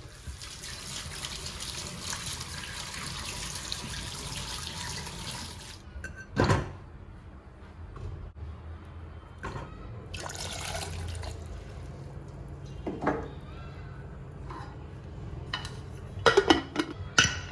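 Water running from a kitchen tap for about six seconds, then again briefly later, with several sharp knocks of dishes or utensils being handled.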